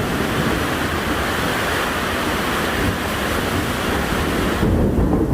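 Strong storm wind with driving rain, the wind buffeting the microphone in low rumbles; a stronger gust comes near the end.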